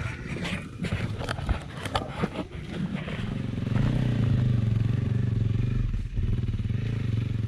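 A dirt bike's engine running at a steady pace, with clattering and scraping for the first few seconds before the engine note settles in about three seconds in.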